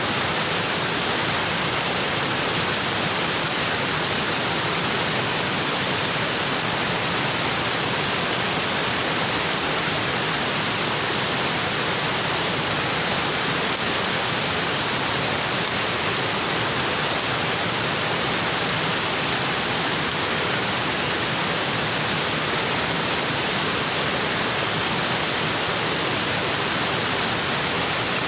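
Waterfall: water falling steadily onto rocks, a constant even rush of water with no change in level.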